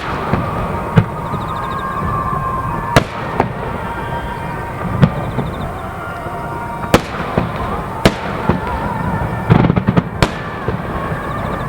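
Fireworks shells bursting in sharp booms every second or two, with a rapid run of several bursts near the end.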